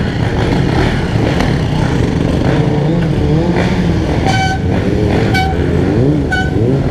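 Dirt bike engines running and revving in street traffic, their pitch rising and falling. About four seconds in, a horn beeps three short times, a second apart.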